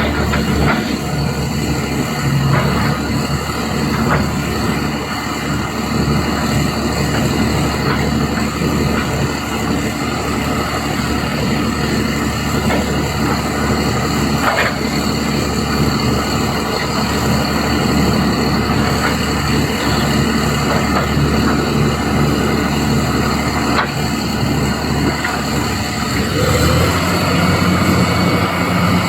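Doosan DX390 hydraulic excavator's diesel engine running steadily while working, with a few sharp knocks. The engine note shifts near the end.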